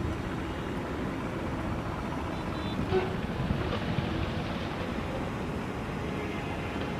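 Wind on the microphone, a steady low rumbling rush that stays even throughout.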